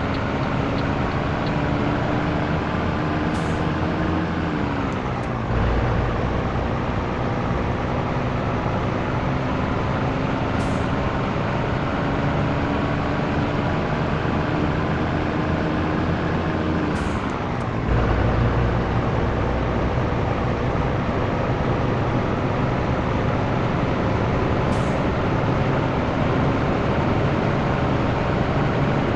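Scania T113 truck's six-cylinder diesel engine pulling on the road, its revs climbing slowly and then dropping sharply at gear changes about five and eighteen seconds in. A short hiss of air sounds four times.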